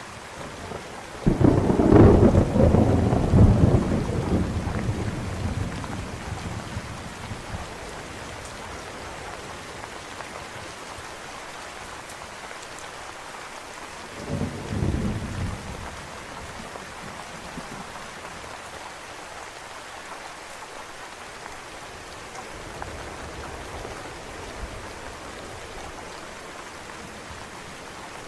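Steady rain with a sudden loud roll of thunder about a second and a half in that rumbles for a few seconds and fades, and a shorter, softer rumble about halfway through.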